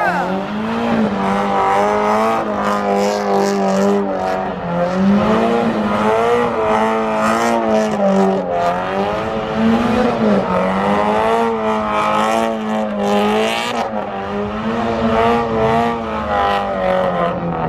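Car engine held at high revs, its pitch wavering up and down as the throttle is worked, with tires squealing underneath: a car doing donuts or a burnout.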